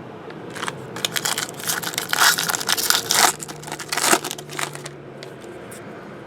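Foil wrapper of a trading-card pack being torn open and crinkled, in a run of sharp crackling bursts that die away about five seconds in.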